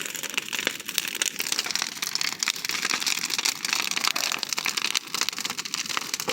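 Large bonfire crackling, with many quick pops and snaps from the burning fuel.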